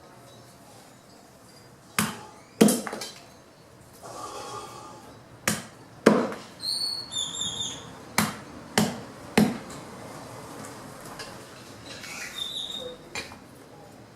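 Fallen branches being chopped into wood chips by hand: about eight sharp chopping strikes, coming in uneven pairs and a run of three.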